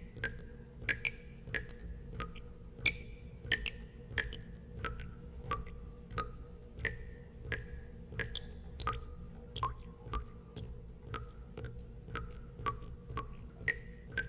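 Water drops falling one after another into water, each a short pitched plink, about one and a half a second and varying a little in pitch, over a steady low hum.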